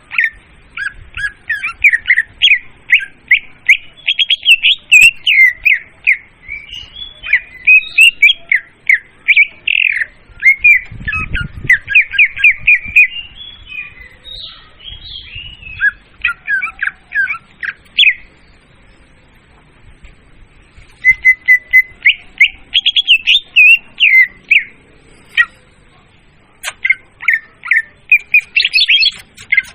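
Murai daun (leafbird) song, recorded as a hunting lure: loud, quick runs of chirps and whistled notes, with a pause of a few seconds past the middle. A brief low thump about eleven seconds in.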